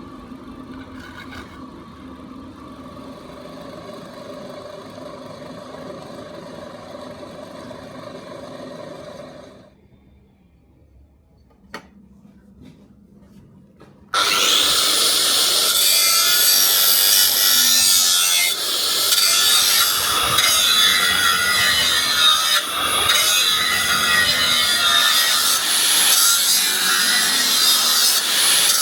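A workshop machine hums steadily and stops about nine seconds in. After a few quiet seconds and a single click, a power tool starts loudly working material about fourteen seconds in, a harsh, dense abrasive noise that keeps going.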